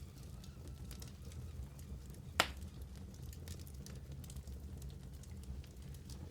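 Wood fire burning in a fireplace, crackling with scattered small ticks over a low steady rumble. One sharp, loud pop comes about two and a half seconds in.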